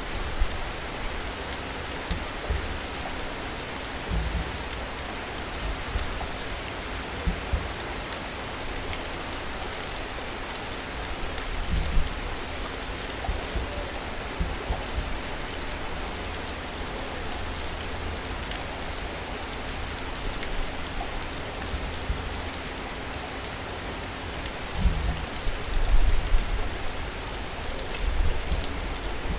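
Steady rain falling in a city, an even hiss of drops, with a faint steady hum and a few brief low rumbles about a third of the way in and again near the end.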